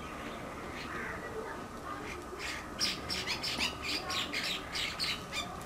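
Birds chirping and squawking in a quick run of short, high calls, starting about two and a half seconds in.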